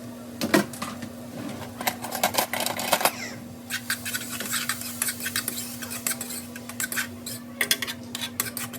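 Kitchen clatter from cooking: a utensil knocking and scraping against pots and pans in quick irregular clinks, over a steady low hum.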